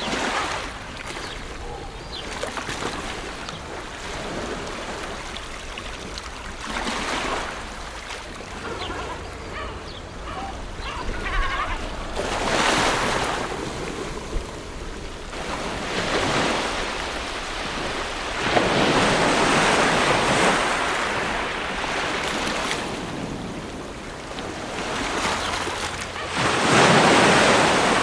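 Ocean surf: waves breaking and washing back every few seconds in slow swells of rushing noise. The largest surges come about two-thirds of the way through and right at the end.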